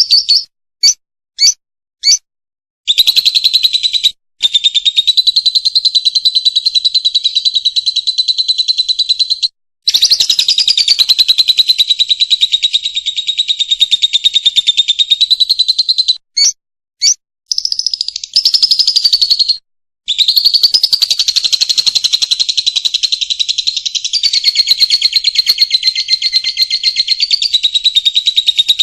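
Lovebird chattering in long unbroken rapid trills of about six to eight seconds each, the drawn-out song that lovebird keepers call ngekek. A few short, separate chirps come at the start and between the runs.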